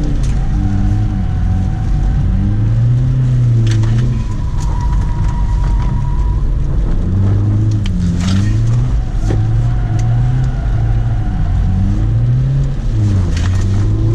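BMW E46 320d's M47 four-cylinder turbo diesel revving up and down over and over as the car is slid through drifts and transitions.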